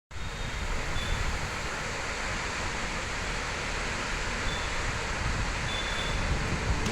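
A large waterfall's water falling in a steady rush of noise, with low irregular rumbling from wind on the microphone.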